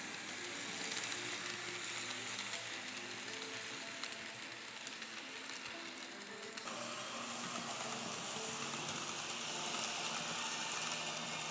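N scale model train running along the track: a steady mechanical whirr of a small motor and wheels on rail. The sound changes abruptly about two-thirds of the way through.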